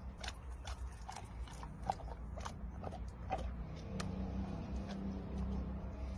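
An animal crunching and chewing food: irregular crisp crunches, a few a second, over a low steady hum.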